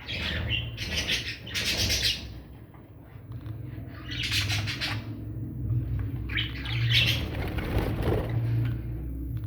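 Budgerigar chicks in the nest calling in several raspy bursts, with quieter gaps between them.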